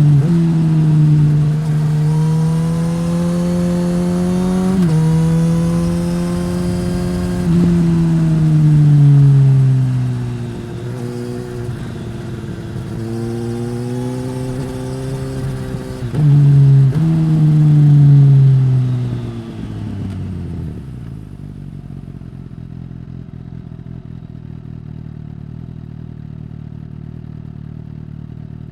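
2015 Suzuki GSX-S1000's inline-four engine through a Yoshimura R-11 slip-on exhaust, heard onboard with wind noise. The engine note climbs and steps through throttle openings, then falls away as the bike slows. About twenty seconds in, the wind noise fades and the engine settles to a steady low idle.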